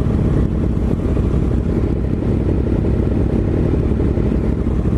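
BMW S1000RR inline-four running steadily while riding, heard under heavy wind rumble on the helmet microphone.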